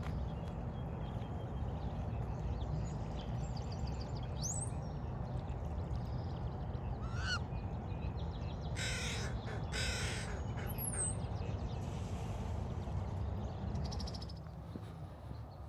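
A bird gives two harsh caws about a second apart, partway through. Thin chirps and whistles from smaller birds come and go, over a steady low background rumble.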